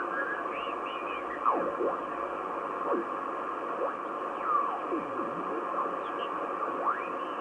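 Grundig Satellit 3400 Pro world receiver's speaker on the SW9 shortwave band: steady hiss and static with heterodyne whistles that glide down in pitch and back up a few times, as carriers are passed while tuning across the band.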